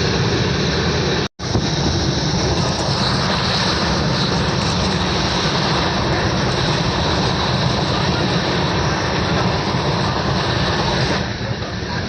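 Indian Railways express train running at speed, heard from inside a sleeper coach as a loud, steady rushing roar. The sound cuts out for an instant about a second in and eases a little near the end.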